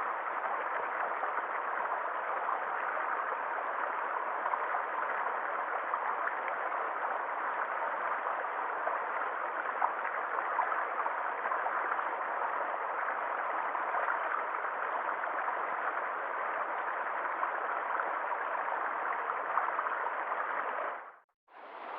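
Stream water flowing steadily over stones, a continuous babble with small gurgles and splashes. About a second before the end it fades out, and a different, hissier steady water sound takes over.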